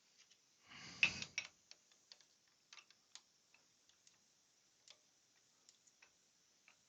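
Irregular light clicks and taps of small wooden and metal parts being handled on a bench, with a louder knock cluster about a second in.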